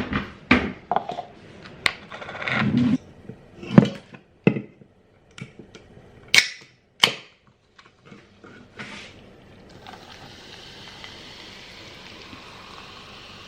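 A string of sharp knocks and clicks at uneven intervals, like things being handled and set down, giving way about ten seconds in to a steady hiss.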